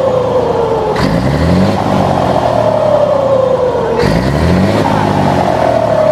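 Scania truck's diesel engine blipped at the throttle, about a second in and again about four seconds in. Each blip is followed by a loud turbo whistle that falls slowly in pitch as it spools down.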